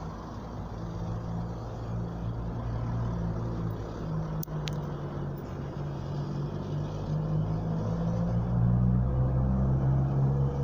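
Low, steady vehicle rumble with a shifting engine-like hum, growing slightly louder, and a single sharp click about four and a half seconds in.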